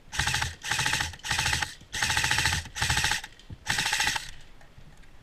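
Airsoft electric gun (AEG) firing on full-auto in six short bursts, each a rapid even buzz of shots, ending about four seconds in.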